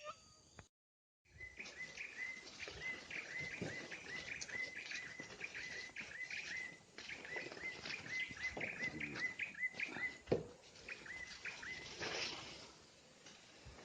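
Drongo calling in a rapid run of short, hooked whistled notes, about three a second, over a noisy background with scattered clicks. The sound cuts out for about half a second near the start.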